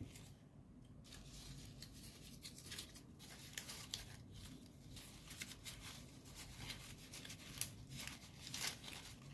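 Folded paper origami units rustling and crinkling as they are slotted together, a faint string of irregular crackles.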